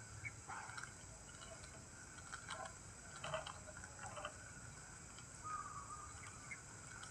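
Faint natural outdoor ambience: a steady high insect drone, with several short chirps that stand out briefly, the clearest about three seconds in.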